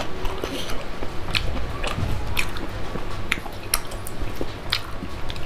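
Close-miked wet chewing of a mouthful of rice and pork, with sharp lip and tongue smacks about once or twice a second.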